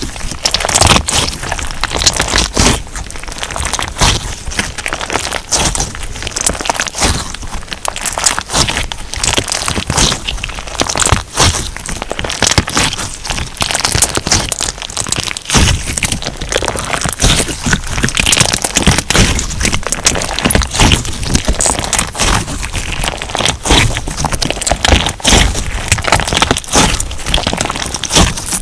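Crunch slime being squeezed and pressed by hand, giving a dense, continuous run of sharp crackles and pops.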